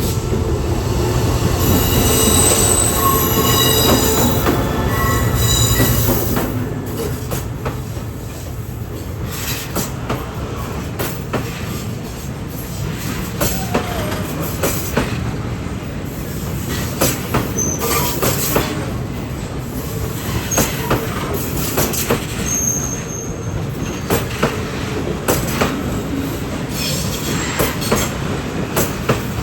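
Train running on steel rails: wheels squealing in high tones over a heavy rumble for the first six seconds, then the rumble eases and irregular sharp clacks of wheels over rail joints carry on, with a brief high squeal again past the middle.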